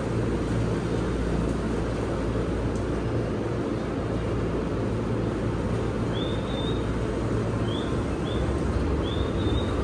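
Steady low hum of a commuter train standing at a platform with its doors open, over platform bustle. From about six seconds in, short high chirps come in pairs, a few times.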